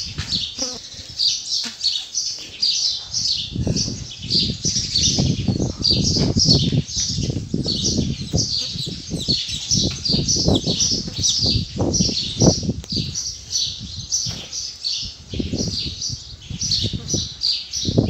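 Small birds chirping rapidly and without pause, several short high calls a second, over irregular low thumps.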